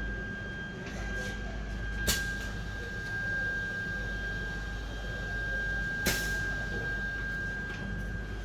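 CNC aluminium-profile cutting machine running, a steady high whine over a low hum, with two sharp mechanical clacks about four seconds apart.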